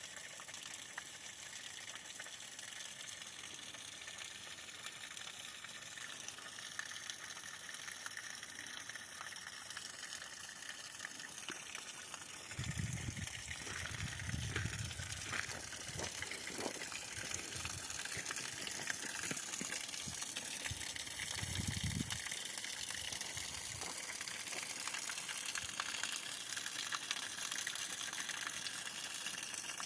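Water falling from a pipe into a frozen ice formation: a steady splashing rush that gets louder about twelve seconds in, with a few brief low rumbles in the middle.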